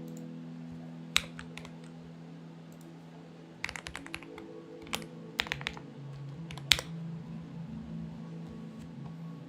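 Mechanical keyboard (Xinmeng X98) typed on in short bursts: a single keystroke about a second in, then quick runs of key clacks between about four and seven seconds in, over soft background music with steady held tones.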